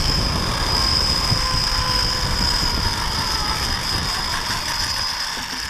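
Zip-line trolley pulleys running along a steel cable: a steady high whine over a low rumble, fading out near the end as the ride slows to a stop.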